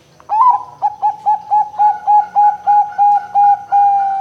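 Zebra dove (perkutut) cooing: a rising first note, then a quick run of about a dozen short clipped coo notes at roughly four a second, ending on one longer held note.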